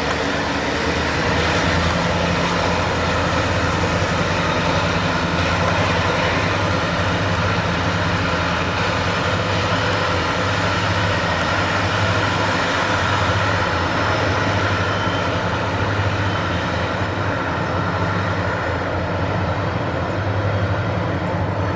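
EMD WDG4 diesel locomotives' turbocharged two-stroke V16 engines working hard under load on a steep climb. They make a steady, heavy drone with a high turbocharger whine that rises slightly over the first couple of seconds.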